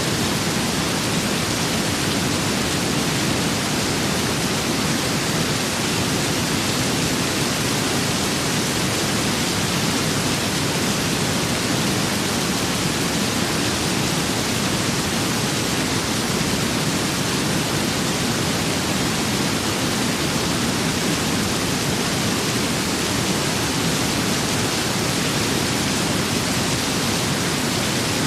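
Steady rain with wind: an even, unbroken hiss with no separate drops, gusts or thunder standing out.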